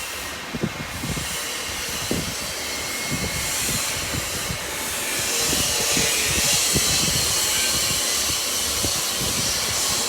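Electric granite cutting machine's saw cutting stone: a steady loud hiss that swells about halfway through, with scattered low knocks underneath.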